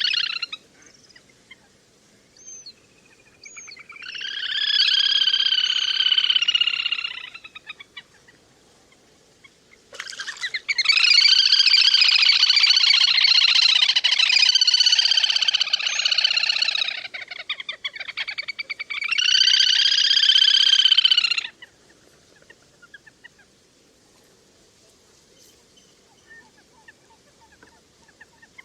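Little grebe calls: three long, high, whinnying trills, the middle one the longest at about seven seconds, with a few faint short notes between them.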